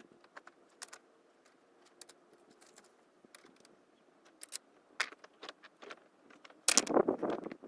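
Scattered small clicks and knocks, irregularly spaced, with a louder, denser second of rustling and knocking near the end.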